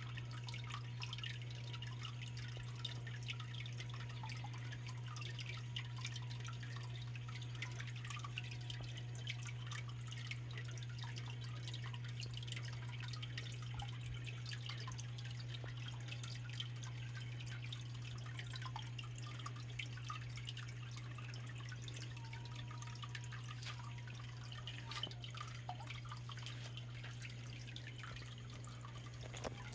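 Small waterfall of a backyard biotope pond splashing and trickling into the water, a dense, even patter of drips and splashes, over a steady low hum.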